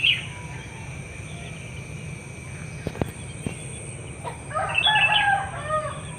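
A rooster crowing once, about four and a half seconds in, lasting about a second and a half.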